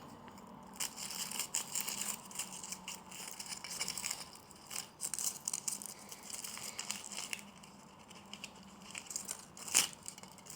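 Packet wrapping being handled and torn open by hand: irregular crinkling and rustling, with one sharp click near the end.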